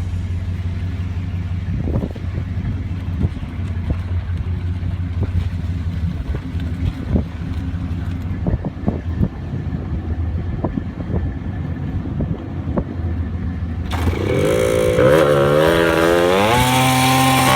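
Suzuki pit bike's small single-cylinder engine idling steadily with light clatter, then revved up in steps about fourteen seconds in and held at higher revs, louder.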